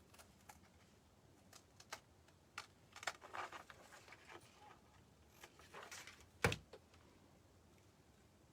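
Faint handling noises of paper craft pieces on a table: scattered small clicks, taps and rustles, with one louder knock about six and a half seconds in.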